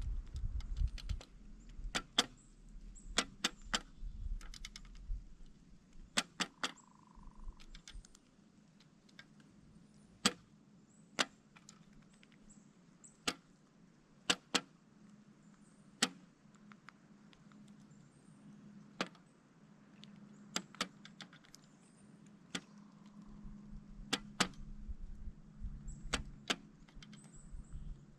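Pileated woodpecker pecking at a suet feeder: sharp, irregular knocks, one every second or two, some in quick clusters.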